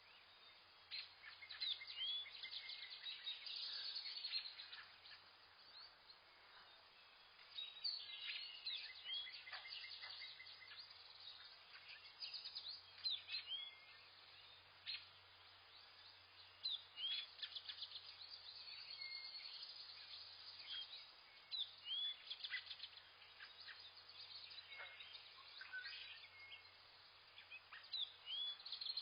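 Several wild birds chirping and calling, a busy overlapping mix of short chirps, rapid trills and brief upward-sweeping notes.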